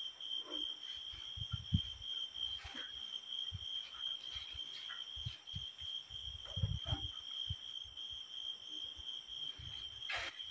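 Crickets chirring steadily in one continuous high trill, with a fainter pulsing call above it about twice a second. Scattered low thuds and knocks of handling close by, and a sharp click near the end.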